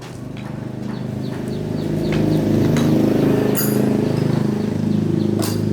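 Restored 8 HP four-stroke diesel engine running. It grows louder over the first two seconds or so as it picks up, then runs steadily, with a couple of sharp clicks.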